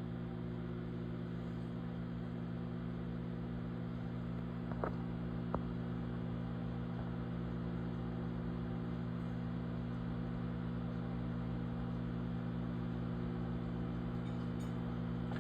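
Microwave oven running with a steady electrical hum while it heats a Hot Pocket, with two faint ticks about five seconds in.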